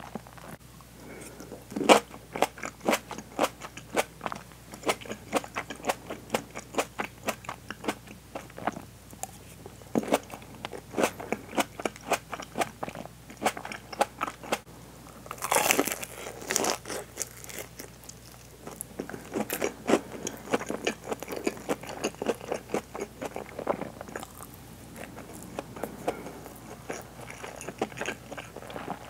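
Close-miked chewing of a mouthful of crisp deep-fried hanpen (Japanese soft fish cake) with cheese. There is a loud crunch about two seconds in, then a long run of quick crunchy chews.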